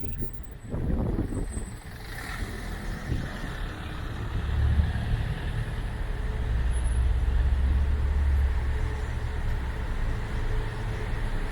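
Road traffic: a motor vehicle's engine rumbles low and close, swelling about four seconds in and then holding steady.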